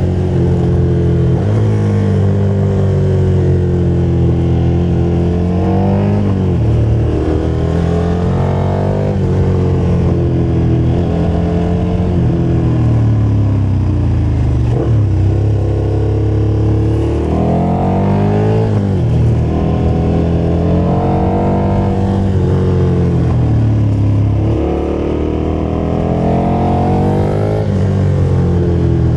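KTM motorcycle engine running under way, its revs climbing and dropping again several times as the rider works the throttle.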